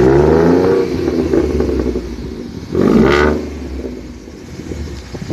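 2011 Ford Mustang engine revved twice, once at the start and again about three seconds in, dropping back to a steady idle between and after.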